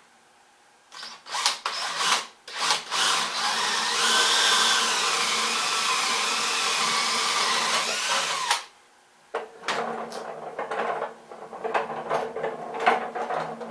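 Power drill boring a 5/8-inch hole into wood: a few short bursts as the bit starts, then a steady run under load for about four seconds that cuts off suddenly. Irregular knocks and scrapes follow.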